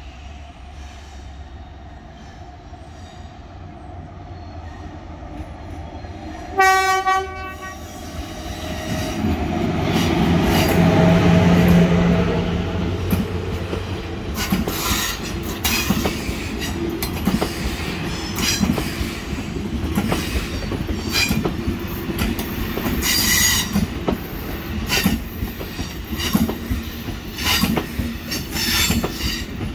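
Passenger train giving one short horn blast about seven seconds in, then passing close by: a rising rumble, followed by a steady clickety-clack of wheels over rail joints, with a brief wheel squeal about two-thirds of the way through.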